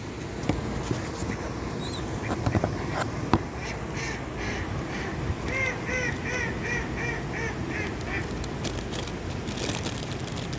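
A duck quacking in a quick, evenly spaced run of about a dozen calls, starting around four seconds in, over steady outdoor background noise.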